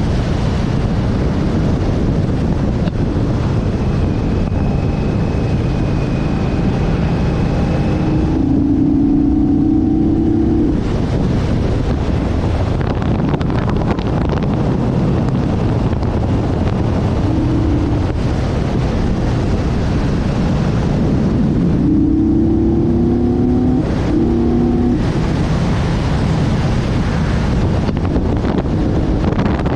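Motorcycle under way at road speed, with heavy wind rush on the microphone over the engine. Twice, for a few seconds each time, a steady engine note stands out from the wind.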